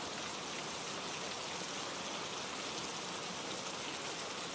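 Steady rainfall, an even patter of rain falling on a surface.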